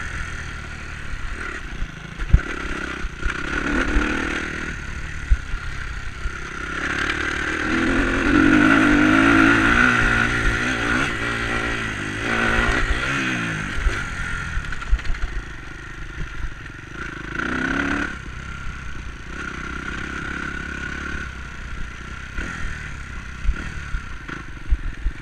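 Enduro motorcycle engine running and revving, its pitch rising and falling as it accelerates and backs off, loudest from about eight to eleven seconds in, with scattered knocks and clatter.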